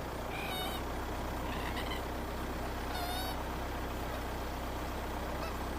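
Steady low hum of a car driving slowly, with short wavering bird calls about half a second in, near two seconds and about three seconds in.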